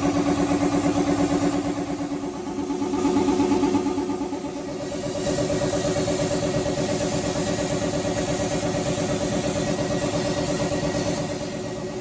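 A machine motor running with a steady, pulsing hum, its pitch shifting a few times.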